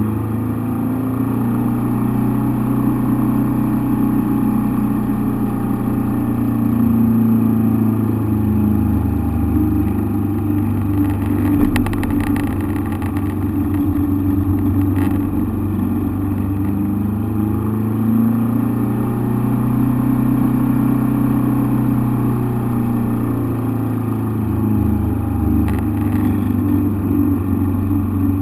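Engine drone heard from inside the cockpit, running steadily with slow rises and falls in pitch.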